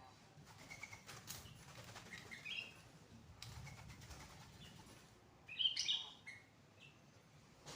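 Birds chirping in short, scattered high notes over a faint rustle, with a louder flurry of chirps and rustling about six seconds in.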